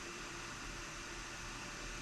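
Steady fan-like hiss with a faint low hum and a thin steady tone, from the bench where a repaired 12 V to 220 V inverter is running with no load.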